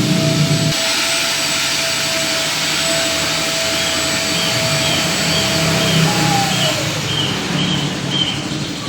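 A machine motor running with a steady whine over a loud rushing hiss. About six and a half seconds in, the whine slides down in pitch as the motor slows, while the hiss carries on.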